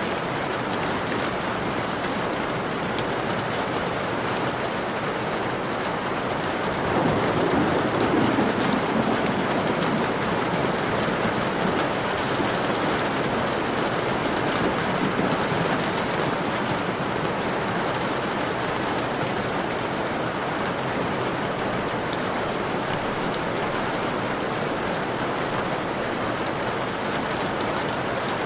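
Steady rain falling on a window, with a fine patter of individual drops. About seven seconds in, a low rumble swells up and fades away over several seconds.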